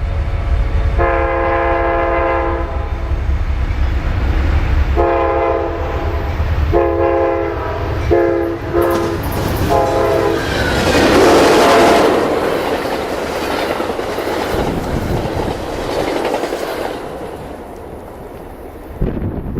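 Diesel locomotive's multi-chime air horn sounding a series of blasts, one long, then several shorter ones in quick succession, over the low rumble of the engine. The train then passes close by, its wheels and cars rushing and clattering loudly, then fading.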